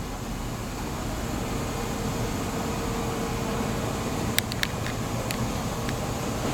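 Izukyu 'Kurofune' train running, a steady rumble and hiss with a faint steady hum. A few short sharp clicks come about four and a half and five and a half seconds in.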